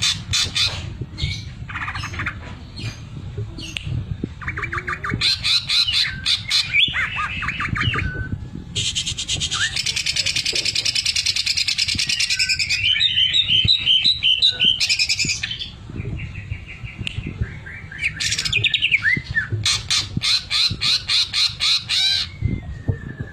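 Greater green leafbird (cucak ijo) singing loudly in a varied run of fast trills, chirps and slurred whistles, with a long, rapid rattling trill in the middle: its 'sewing machine' (mesin jahit) mimicry.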